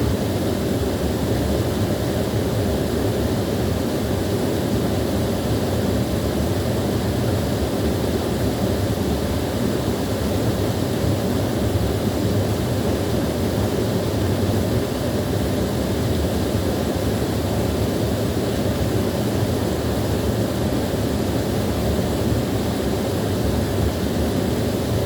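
Small waterfall rushing steadily, water pouring and splashing without a break.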